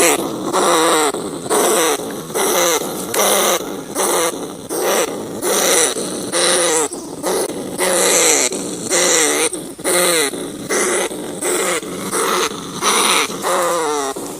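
Rat calls: a rapid, unbroken run of short, wavering squealing cries, repeating about every half second to second.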